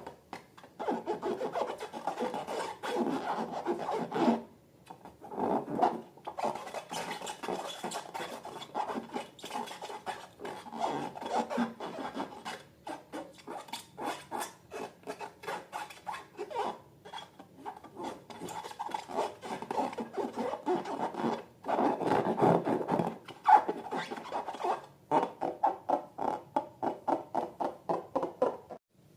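Slime being worked by hand, with dense crackling, squishing and rubbing, broken by short pauses about 4 and 12 seconds in and near the end.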